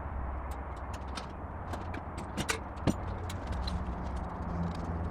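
Scattered light clicks and knocks of tools and metal parts being handled, over a steady low hum.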